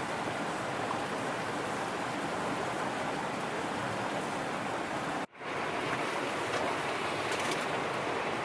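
Steady, even rushing noise. It drops out suddenly for a moment a little after five seconds and then returns.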